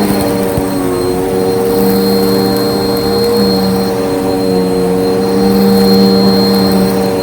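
Bissell vacuum cleaner running steadily: a loud, even motor hum with a thin high whine over it.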